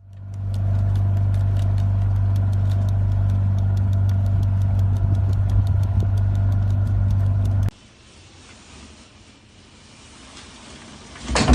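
A steady low motor hum with rapid, even ticking, which cuts off abruptly about two-thirds of the way through and gives way to a much quieter, dull background noise.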